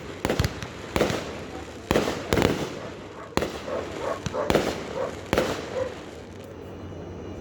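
Fireworks going off: a quick, irregular series of sharp bangs and booms with crackling between them, thinning out near the end.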